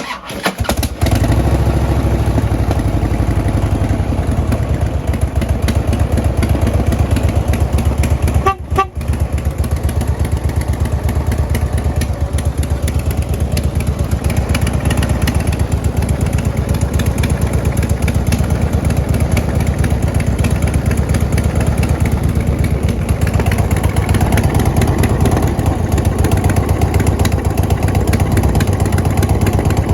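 2009 Harley-Davidson Road Glide's Twin Cam 96 V-twin, fitted with Vance & Hines exhaust, starting and then idling steadily. The sound cuts out briefly about nine seconds in.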